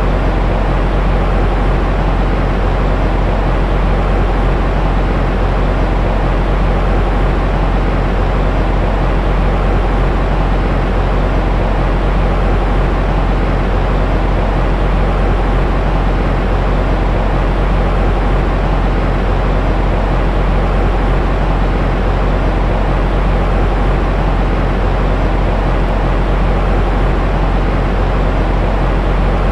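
Continuous white noise for lulling a baby to sleep: a deep, even hiss weighted toward the low end, with a slight hum underneath, unchanging throughout.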